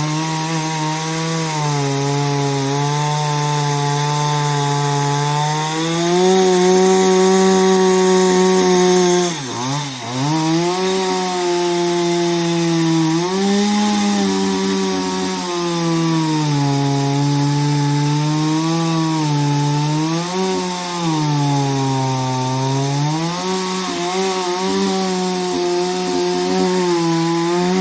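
Chainsaw cutting through the trunk of a fallen tree, its engine running hard with the pitch rising and sagging as the chain bites into the wood and eases off. About ten seconds in, the engine note drops sharply and then picks up again.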